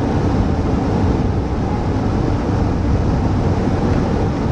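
Steady rumble of a vehicle driving, heard from inside the cabin: engine, road and wind noise.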